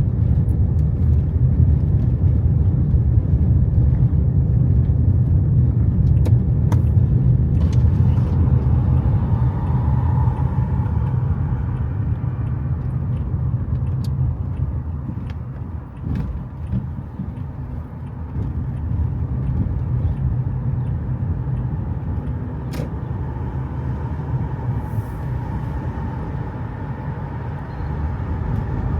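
Steady low rumble of road-vehicle noise that eases somewhat about halfway through, with a few faint sharp clicks.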